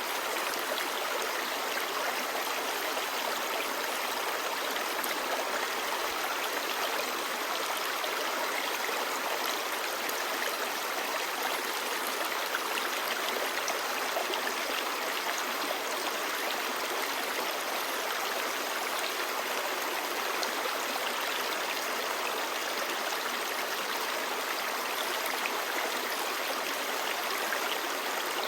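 Clear shallow stream babbling and splashing over stones, a steady rushing hiss.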